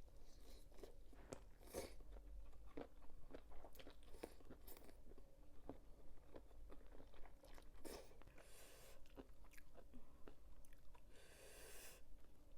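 Close-up chewing of crunchy squid in a spicy pounded salad: many small crisp crunches and mouth clicks, with a short rushing noise near the end.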